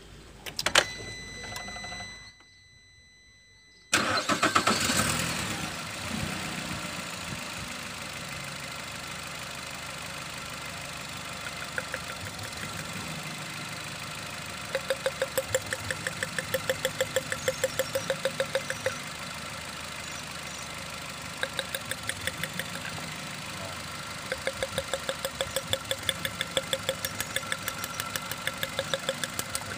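A short beep, then a Nissan X-Trail T31's four-cylinder petrol engine starts about four seconds in and settles into idling, during a check of its ignition coils for a misfire. At times a sharp rapid ticking, about five or six a second, rises over the idle.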